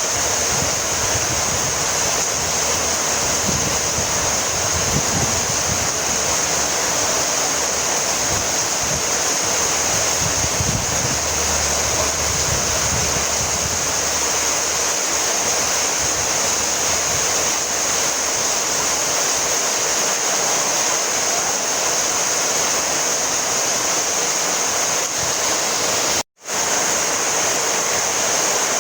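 Heavy rain falling steadily, an even hiss of countless drops. It cuts out for a split second near the end.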